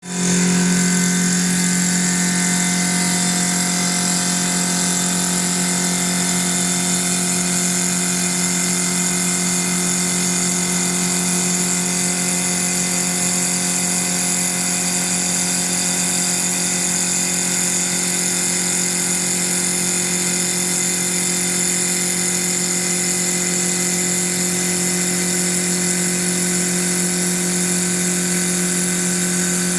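CNC wood lathe running steadily: a constant low hum with a hiss above it.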